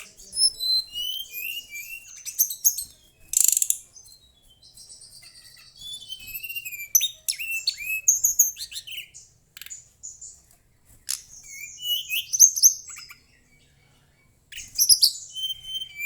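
Mangrove whistler (tledekan bakau) singing: a varied run of clear high whistles, falling slurred notes and quick chattering trills, with a short pause a little before the end.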